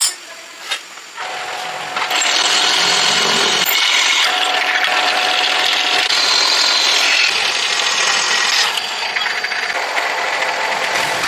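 A machine or power tool starts up after two sharp clicks and runs steadily with a loud hissing noise, easing off a little near the end.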